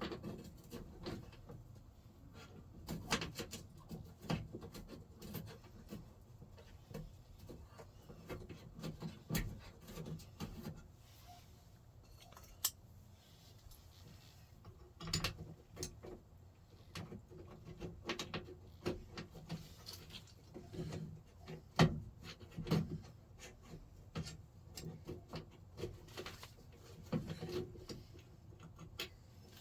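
Intermittent clicks, clinks and knocks of hand work on a square-body Chevrolet truck door's latch and handle mechanism, a few sharper knocks among them.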